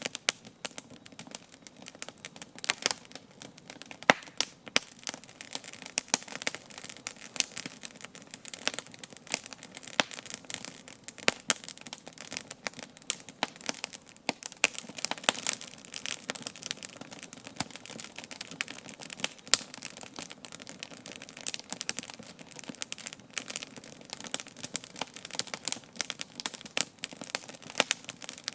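Wood campfire crackling, with dense irregular pops and snaps and a few louder cracks, the sharpest about four seconds in.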